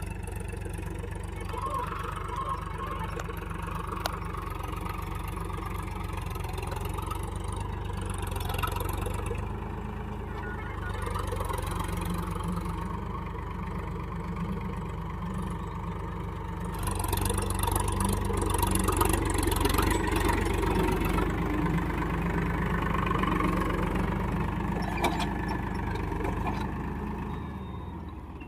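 Tractor diesel engine running steadily. It grows louder for a stretch in the second half, then eases off near the end.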